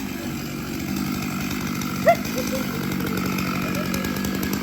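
A chainsaw engine running steadily. About two seconds in there is one short, loud, upward-sliding cry.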